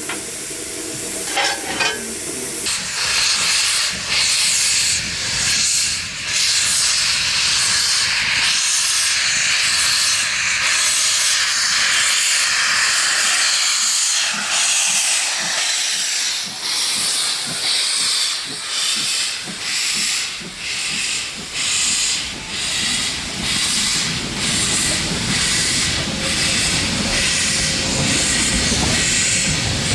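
Steam locomotive hissing loudly as steam escapes. For a stretch in the middle the hiss pulses in regular beats, about one a second.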